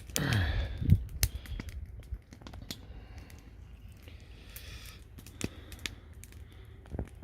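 Plastic bag crinkling and rustling, with scattered small sharp clicks, as caught burbot and tackle are handled. A short sound falling in pitch comes about a second in.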